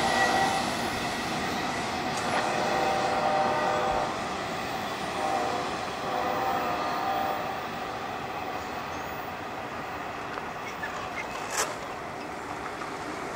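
Freight train cars rolling past with intermittent high wheel squeal, gradually fading, and a single sharp click near the end.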